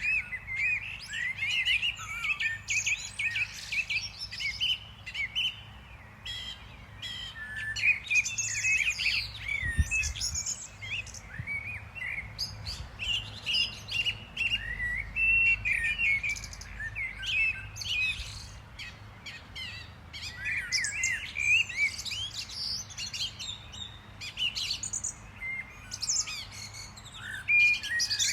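A chorus of small birds chirping and twittering, many short quick calls overlapping without pause, over a faint low hum and a soft thump about ten seconds in.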